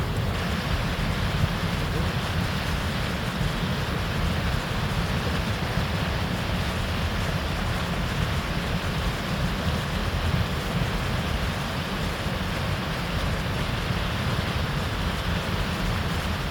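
Steady rush of a mountain stream's flowing water, with wind rumbling on the microphone.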